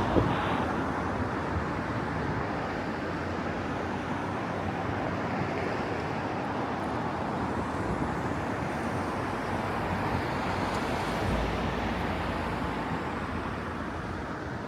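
Steady hum of distant city traffic with some wind. One sharp firework bang comes just after the start, with a faint pop or two later.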